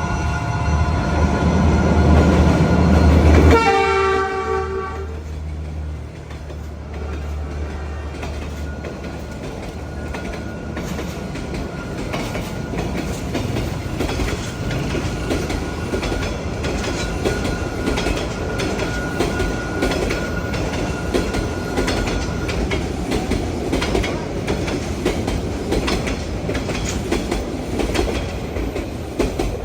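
A diesel-hauled passenger train passing close: a heavy locomotive engine rumble that drops away suddenly about three and a half seconds in, a horn blast of about a second and a half right after, then the carriages rolling by with steady wheel clatter over the rail joints.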